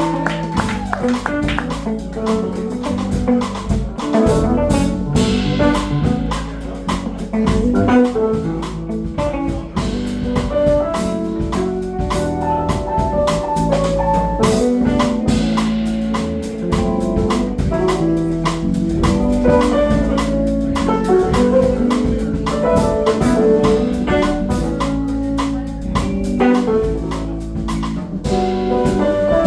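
Live funk band playing an instrumental passage, with guitar and drum kit and no singing.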